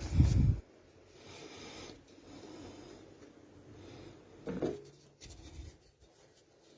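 Workshop handling noises: a heavy, deep thump at the start, then soft rubbing and scraping of wood pieces, with a short squeak and another low knock about five seconds in.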